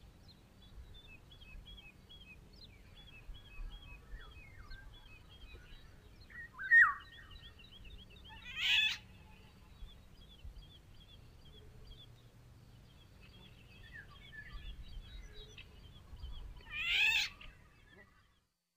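Eurasian golden oriole calling: three loud calls, one about a third of the way in, another two seconds later and a third near the end, over faint repeated chirping of small birds. The recording cuts off just before the end.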